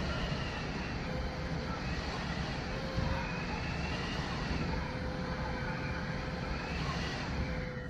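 Strong gusting wind blowing hard, with a faint whistling tone that slowly rises and falls in pitch.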